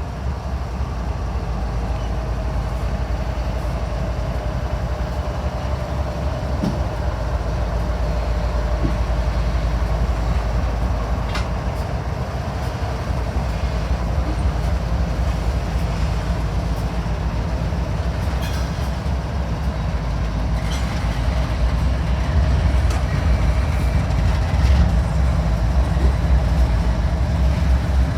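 Freight train rolling past: a steady, continuous rumble of railcars on the track with scattered short clicks and brief squeals from the wheels, growing a little louder in the last few seconds.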